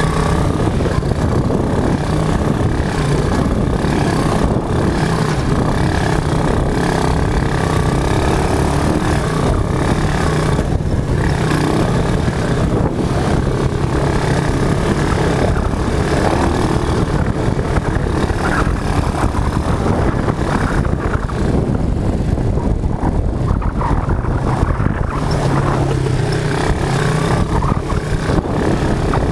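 Quad bike (ATV) engine running loud and continuous, its pitch shifting now and then.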